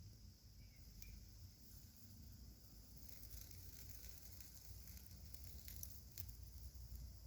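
Small campfire crackling faintly, with scattered sharp pops over a soft hiss.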